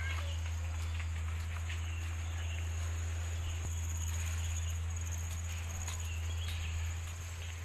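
Insects chirring steadily in a high, unbroken drone, over a steady low hum.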